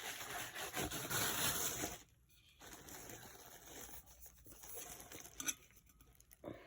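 Packaging rustling and crinkling as an item is unwrapped by hand, busiest over the first two seconds, then quieter handling with a short tick about five and a half seconds in.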